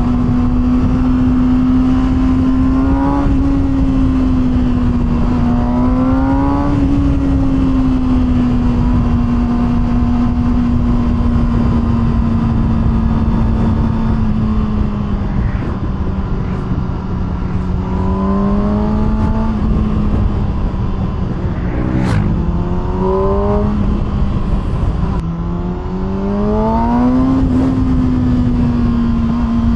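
Kawasaki ZX-6R inline-four with an SC-Project aftermarket exhaust, running at a steady cruise. The pitch rises in short throttle roll-ons several times and dips slightly between them, over a low rush of wind and road noise, with one sharp click about two-thirds through.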